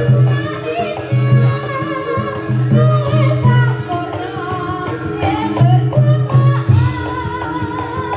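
Traditional Javanese folk music for a reog / jaranan performance. Drums beat in repeated bursts under a wavering, bending melody line, over steady sustained tones.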